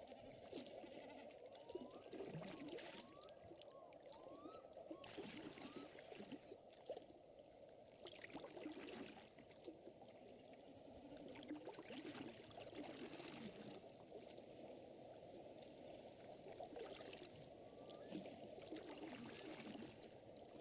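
Faint layered nature ambience: water lapping and trickling, with short rising calls from an animal, several in a row a few seconds in and again near the end.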